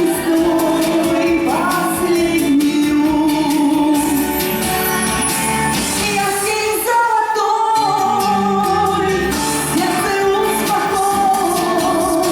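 A song performed live: a voice singing long held notes over a continuous instrumental accompaniment.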